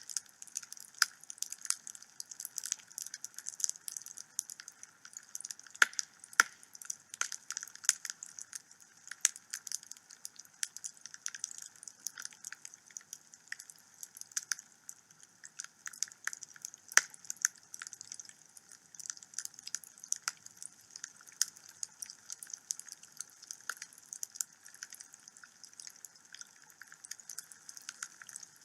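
Wood fire burning in a fireplace, crackling and popping irregularly over a steady soft hiss, with a few sharper pops standing out, the loudest around six and seventeen seconds in.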